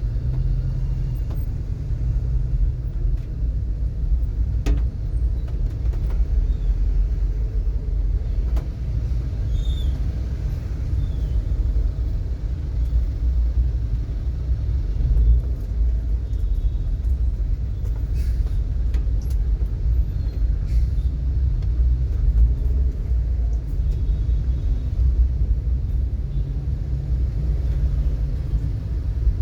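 Steady low rumble of motor vehicles in a traffic jam, with a few faint ticks.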